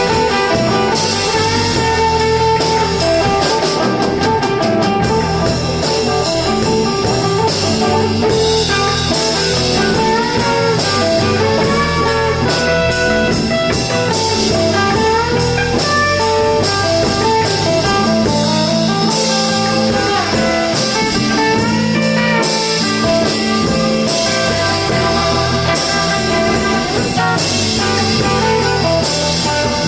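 Live blues band playing an instrumental break: electric guitar carrying a lead line of bending notes over drums and bass.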